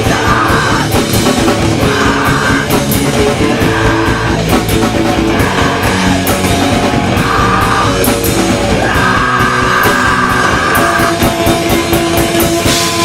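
Live hardcore band playing loud with distorted guitars, bass and drums, cymbals crashing throughout. A guitar figure repeats in short phrases, then holds longer near the end as the song starts to close.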